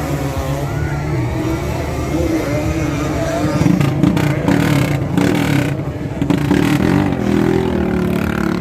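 Motocross bike engines revving and running, their pitch rising and falling as the throttles open and close.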